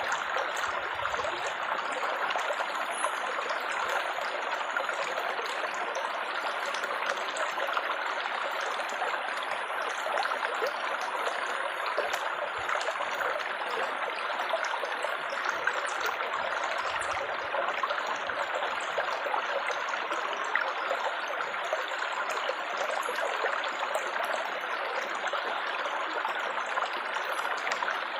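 Babbling, trickling water running steadily and evenly, without pause.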